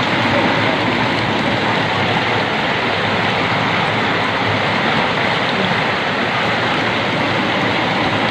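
Steady, unbroken rushing noise of typhoon wind and water.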